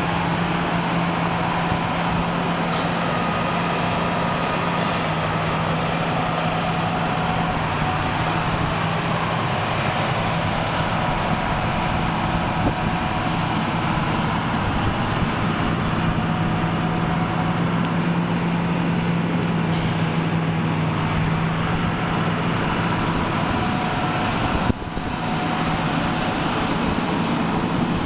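Diesel engine of a Caterpillar 120H motor grader running steadily while the machine works, a continuous low hum with a steady droning tone. The level dips for a moment a few seconds before the end.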